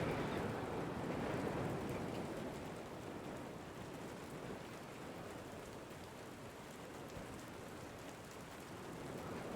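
Rain falling steadily, with wind: an even hiss that eases over the first few seconds and picks up slightly near the end.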